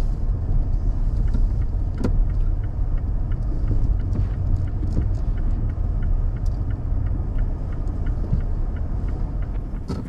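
Steady low road and engine rumble inside a moving SUV's cabin.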